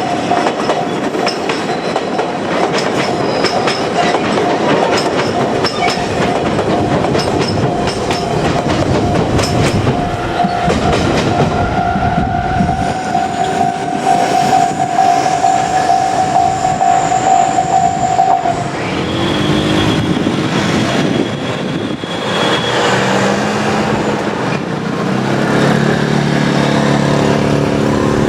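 JR Kyushu electric trains passing over a level crossing, wheels clattering over the rail joints while the Japanese crossing's electronic warning bell rings. The bell stops about two-thirds of the way through once the line is clear, and road traffic starts to move across near the end.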